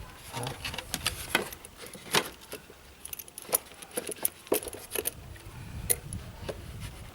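Irregular light metallic clinks and clicks, several sharp ones among them, of battery terminal clamps and hand tools being handled while the terminals are fitted back onto the battery posts.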